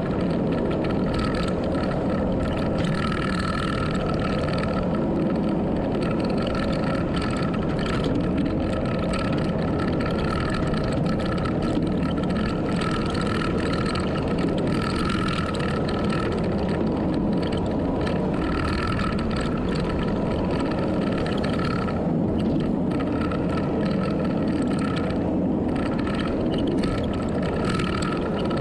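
A motor vehicle engine running steadily at an even level, with no clear revving.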